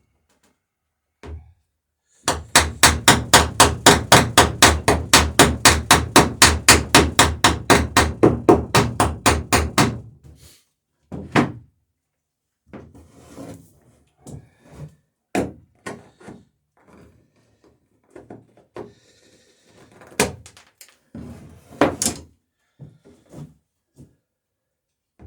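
Rapid, even hammer blows peening a rivet over its burr on a wooden boat's plank lap, about five strikes a second for some eight seconds, then scattered single knocks and clatter of tools and wood.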